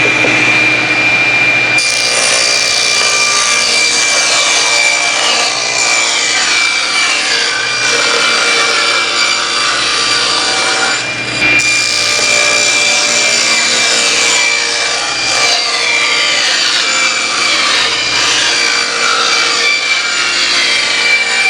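Power saw running at speed with a steady high whine while cutting through plywood, with a brief lull about halfway.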